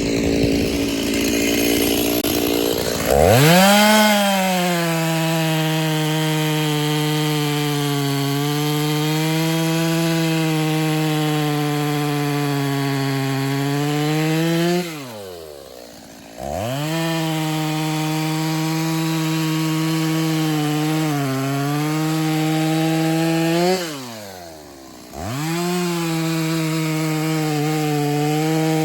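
Stihl MS 290 Farm Boss chainsaw, converted with an MS 390 kit, running at full throttle and cutting through log rounds. It revs up about three seconds in and then holds a steady, slightly lower note under load. The throttle is let off twice, the revs falling away briefly before the saw revs back up into the next cut.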